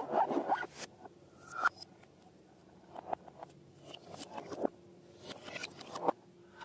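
Rubber balloons and slime being handled up close: a quick run of short scraping, rustling strokes, then scattered single scrapes and squishes with a brief rubbery squeak.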